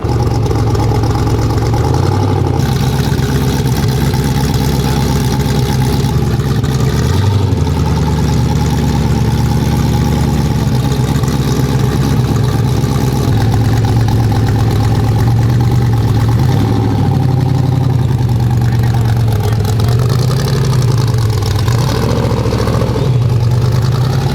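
Off-road prerunner truck engine running loud and continuously, its pitch wavering up and down with the throttle as it is driven.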